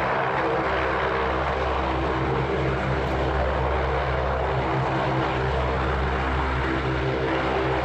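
Aircraft engine sound effect: a steady drone with several engine tones under a noisy rush, cutting off abruptly at the end.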